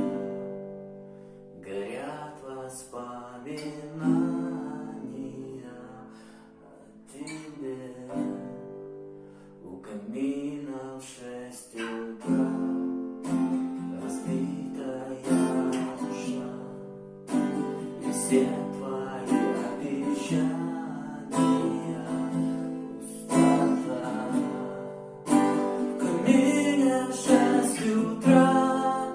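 Acoustic guitar strummed and picked as accompaniment, with a voice singing over it at times. The playing is sparser at first and becomes fuller, steady strumming from about twelve seconds in.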